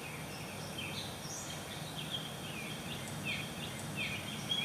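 Birds chirping: many short, falling calls scattered throughout, over steady background noise.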